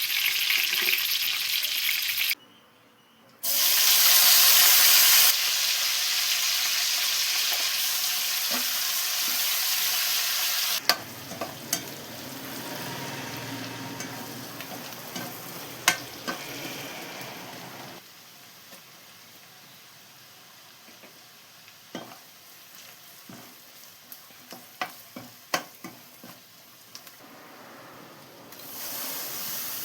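Curry ingredients sizzling as they fry in a pan, stirred with a utensil that clicks and scrapes against it. The sizzle cuts out briefly a few seconds in and comes back at its loudest, then drops to a quieter fry about a third of the way through, with scattered sharp taps of the utensil, and swells again near the end.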